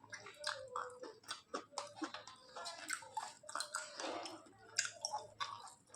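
Close-miked chewing and wet mouth clicks of a person eating rice with chicken curry and vegetables, in quick, irregular strokes.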